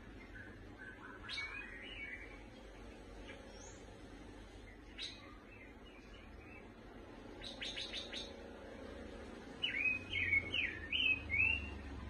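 Caged pancawarna bird chirping: scattered short chirps, a quick rattle of clicks about seven and a half seconds in, and a louder run of short rising notes near the end.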